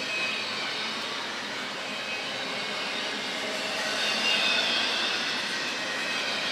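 Double-stack intermodal freight cars rolling past, a steady noise of steel wheels running on the rails.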